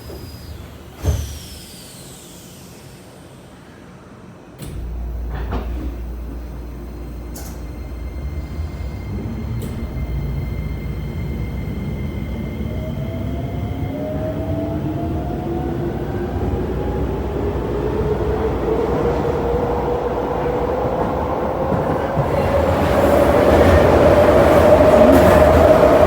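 Keisei 3000 series electric train with Toyo IGBT VVVF inverter control pulling away and accelerating. There is a sharp knock about a second in, and running rumble starts a few seconds later. The inverter and traction-motor whine then rises steadily in pitch and grows louder as speed builds.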